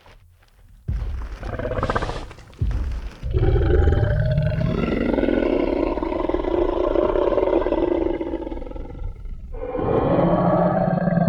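Designed Tyrannosaurus rex sound effect. A few short, deep rumbling sounds come in the first three seconds, then one long roar lasting about six seconds. After a brief break a second roar starts near the end.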